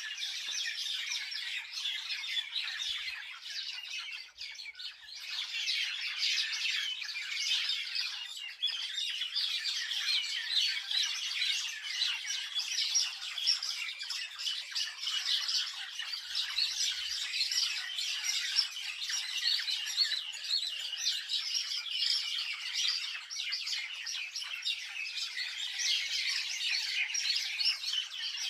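Many small birds chirping and calling together in a dense, continuous chorus, with a brief lull about four seconds in.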